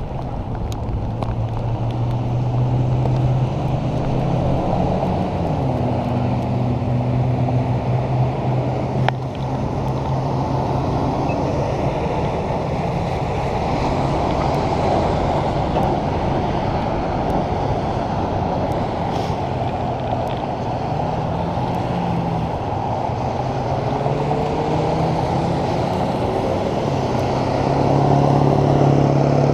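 Wind rushing over the microphone of a bicycle riding on a wet road, with motor traffic running alongside. Engine hum rises and falls in pitch as vehicles pass.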